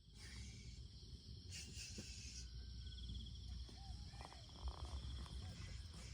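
Night insect chorus: crickets trilling steadily in several high, pulsing layers over a low background rumble.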